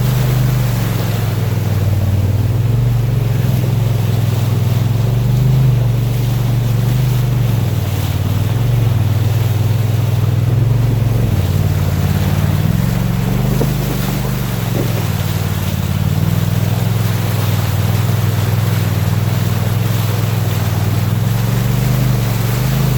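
The 2018 Polaris RZR XP Turbo S's turbocharged twin-cylinder engine runs steadily under way, its pitch rising and falling a little, over a steady rush of water and wind noise.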